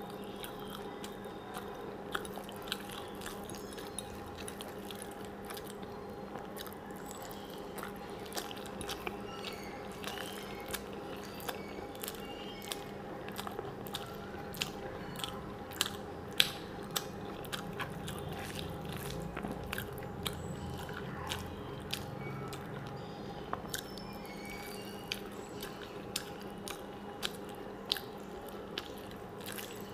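Close-up chewing and wet mouth sounds of someone eating rice and vegetable curry by hand, with many short sharp clicks and smacks. A steady low hum runs underneath.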